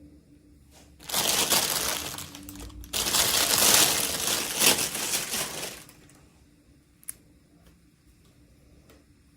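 Packaging being crinkled and crushed in the hands while unboxing, in two long spells, followed by a single light click about seven seconds in.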